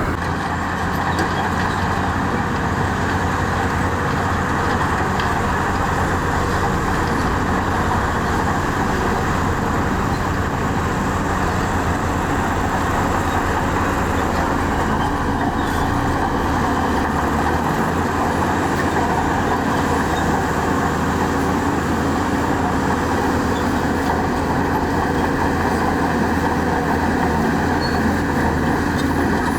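Heavy diesel engines of earthmoving machinery, a bulldozer and dump trucks, running steadily at work.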